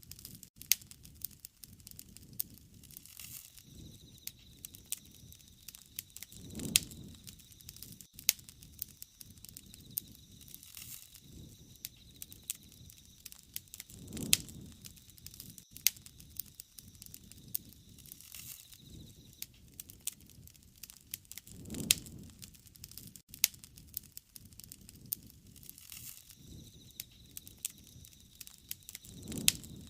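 Wood fire crackling, with sharp pops and snaps throughout and a soft low whoosh that swells about every seven to eight seconds.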